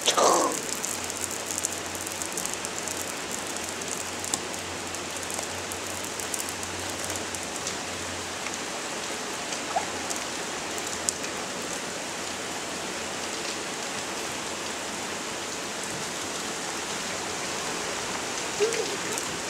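Steady rain falling on a wooden deck and lawn: an even hiss with a few faint drop ticks.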